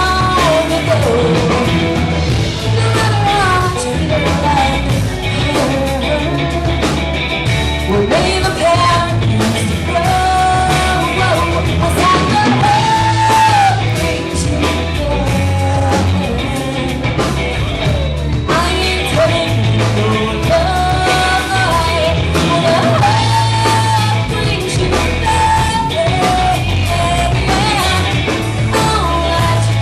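A live rock band playing a song with a singer, bass and drums, loud and steady throughout.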